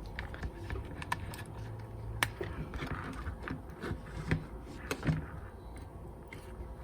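Scattered light clicks and taps at irregular moments from handling small tools and parts on a repair bench.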